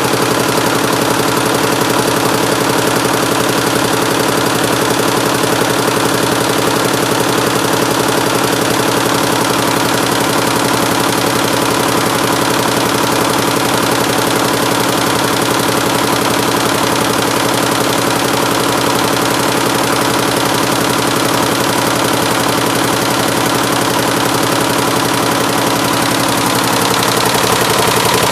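176-needle mini Schiffli embroidery machine running: a steady, fast mechanical clatter over a constant motor hum.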